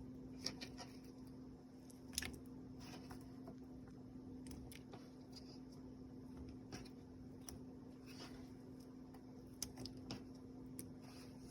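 Faint, scattered clicks and taps of kitchen utensils and cookware, the sharpest about two seconds in, over a steady low hum.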